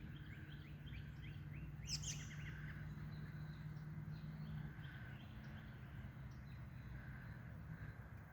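Small birds chirping in a run of short, quick notes, with one louder, sharper call about two seconds in, over a steady low hum.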